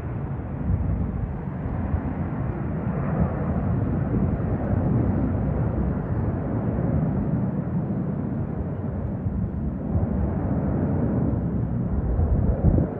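Jet aircraft engines making a steady low rumble that swells slightly near the end.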